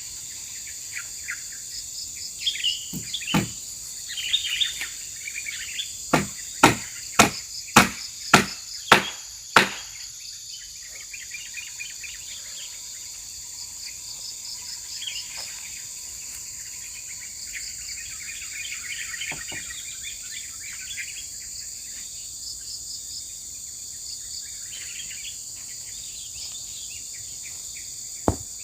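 A hammer driving small nails into wood: a run of about seven sharp strikes, nearly two a second, a quarter of the way in, with a few single knocks before and near the end. A steady high drone of forest insects and bird chirps runs underneath.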